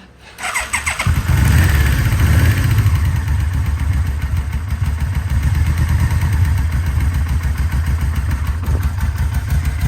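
Yamaha Vmax 1200's V4 engine running at a steady idle after its rebuild and carburettor overhaul. It comes in about a second in and then holds an even, rapid low beat.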